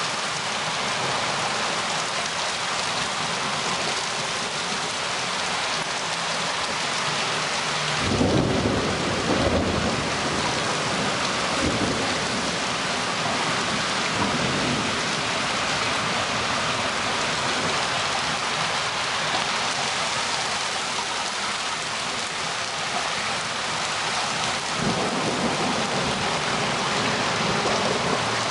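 Steady heavy rain during a thunderstorm. About eight seconds in a clap of thunder breaks in and rumbles for a couple of seconds, with fainter rumbles later and another low rumble near the end.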